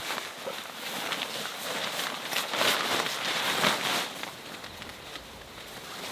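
Irregular crunching and rustling of someone moving about on the forest ground, with many small crackles, loudest around the middle.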